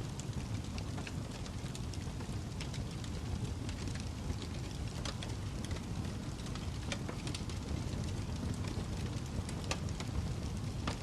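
Wood fire crackling in a fireplace: a steady low rumble with sharp, irregular pops and snaps every second or two.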